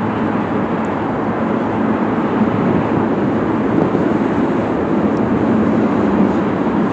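Freight train of tank cars rolling across a steel girder railway bridge overhead: a steady, unbroken rumble of wheels on rail.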